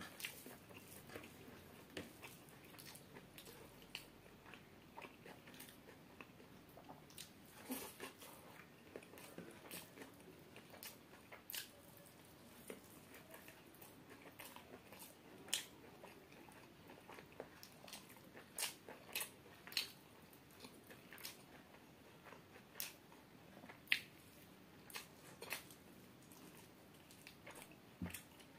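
Close-miked eating of chicken biryani by hand: chewing with wet mouth clicks and lip smacks, heard as irregular short sharp clicks, a few of them much louder.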